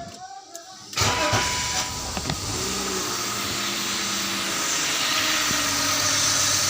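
BMW engine starting about a second in, catching at once and settling into a steady idle, its revs easing down slightly after the start. It runs with the accessory drive belt removed, so only the crankshaft pulley turns, and it sounds very smooth.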